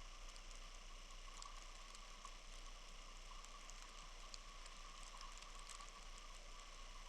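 Snowstorm ambience: a faint, steady hiss with many tiny scattered ticks, like falling snow pattering on surfaces.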